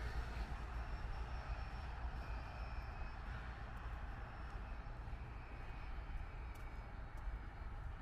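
City street traffic noise: a steady low rumble of passing vehicles, with a few small clicks near the end.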